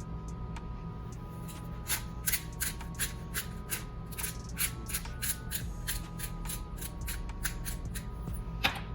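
Irregular sharp clicks and taps, several a second, like objects being handled, over quiet background music.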